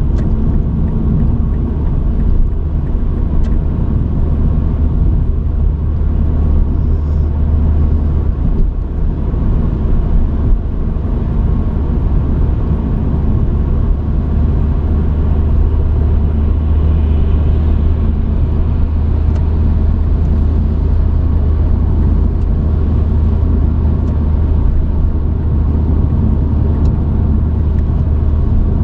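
A truck driving, heard from inside the cab: a steady low engine and road rumble.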